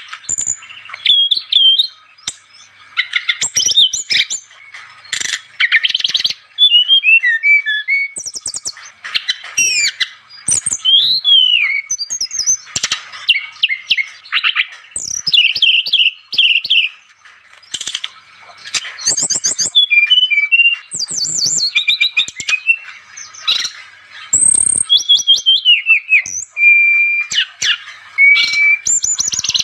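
Brown-chested jungle flycatcher (sikatan rimba dada coklat) singing energetically. It runs a fast, unbroken string of varied phrases: rapid chirps, quick rising and falling whistles and trills, with a couple of short held whistles near the end.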